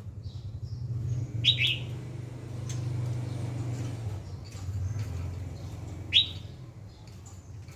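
Pet bird giving short, sharp chirps that drop in pitch: a quick pair about a second and a half in and one more at about six seconds, over a steady low hum.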